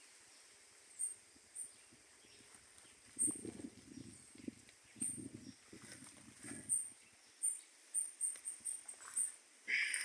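Rural outdoor ambience: short, high chirps at irregular intervals, with a run of muffled rustling or wind bursts on the microphone in the middle.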